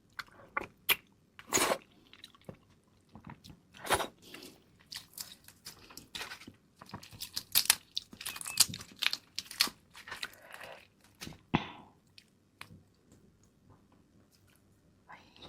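Crab being eaten: irregular crunching, biting and chewing of shell and meat, with sharp crisp cracks that go quiet for a few seconds near the end.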